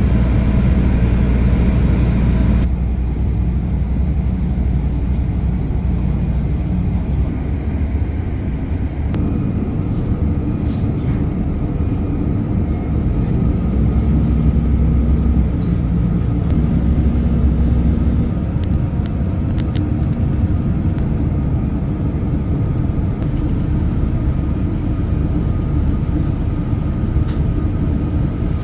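Passenger train running, heard from on board: a steady low rumble with a few scattered clicks and knocks from the running gear.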